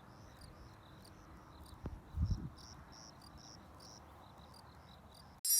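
Crickets chirping steadily, about two chirps a second, high-pitched. About two seconds in there is a short, louder low thump.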